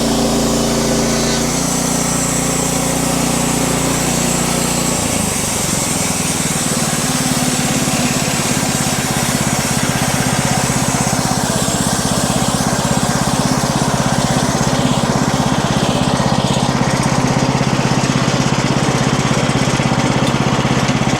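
Wood-Mizer LX50 Super band sawmill running on its small engine. The engine note steps down about a second and a half in and again about five seconds in, then holds steady with a rapid, rough pulse as the saw head cuts through the log.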